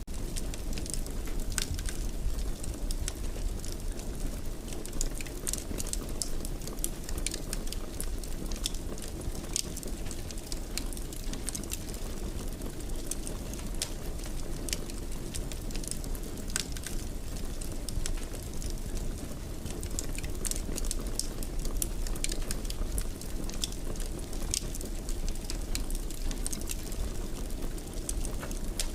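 Wood fire burning in a fireplace: a steady low rumble with frequent, irregular crackles and pops.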